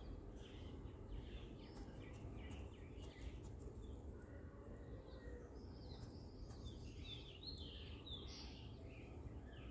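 Faint, repeated chirping of small birds over a steady low background rumble, busier in the second half, with a few light clicks.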